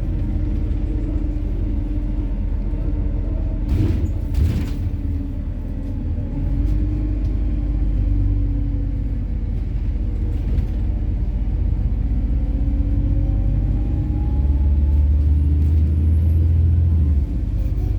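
Cabin sound of a MAZ-103 city bus with a methane-fuelled engine, under way: a steady low engine and road rumble with a drivetrain hum. There are a couple of knocks about four seconds in, then a hum that slowly rises in pitch. A deep drone swells near the end and cuts off abruptly.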